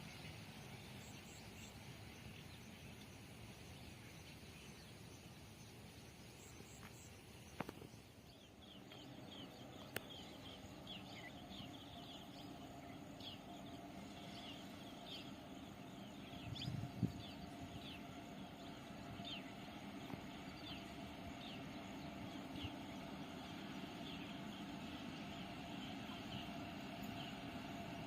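Quiet outdoor ambience with small birds chirping: many short, high calls repeating from about a third of the way in. A faint low steady hum sits underneath, and a single dull thump comes near the middle.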